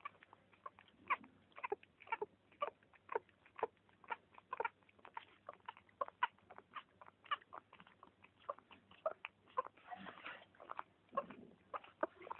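A litter of newborn pets crying, many short high squeaks overlapping, about two or three a second.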